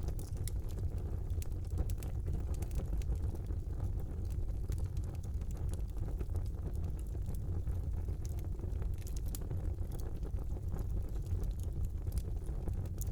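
Wood fire burning in a brick fireplace: a steady low rumble of flames with frequent sharp crackles and pops from the burning logs.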